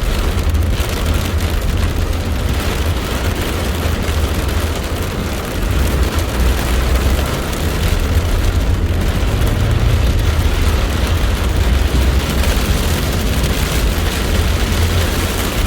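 Loud, steady thunderstorm noise: heavy rain and wind with a deep rumble underneath.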